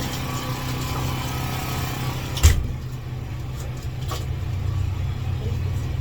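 A steady low engine hum runs throughout. About two and a half seconds in there is one sharp knock, after which the high hiss fades, and a lighter click follows near four seconds in.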